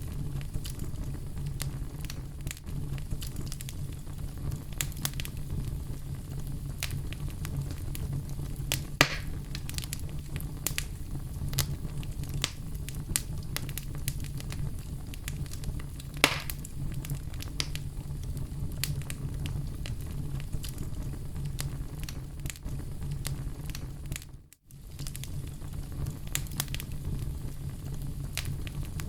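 Oak logs burning in an open fireplace: a steady low rumble of flames under frequent crackles and sharp pops, with two louder pops about a third of the way in and just past halfway. The sound cuts out for a moment late on.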